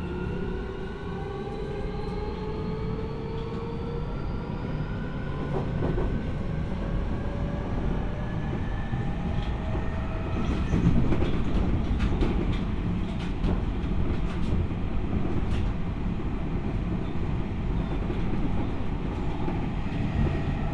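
Keio 1000 series commuter train heard from inside the car as it accelerates: the VVVF inverter traction-motor whine rises in pitch as several tones for about the first ten seconds. It then gives way to steady wheel-on-rail running rumble with light clicks of the wheels over rail joints.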